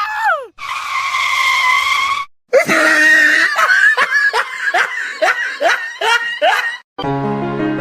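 A high-pitched voice: a short falling cry, a held scream, then a run of about nine quick rising laugh-like yelps. Music comes in near the end.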